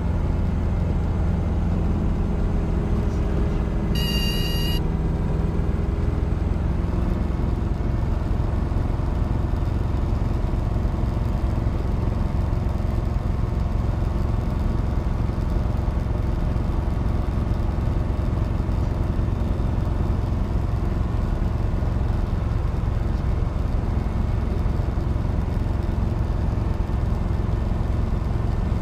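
Robinson R22 helicopter's engine and rotor running steadily, a constant low drone. About four seconds in, a brief high-pitched beep sounds over it.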